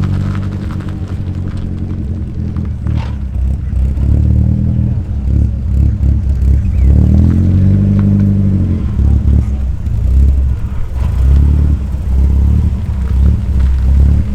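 Car engines running at low revs with a deep rumble, the pitch rising and falling as cars move off or drive past.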